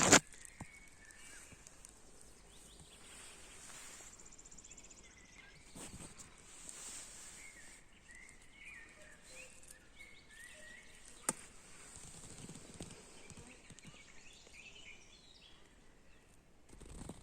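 Small birds chirping in short, scattered calls over a faint steady high hiss, with a single sharp click about eleven seconds in.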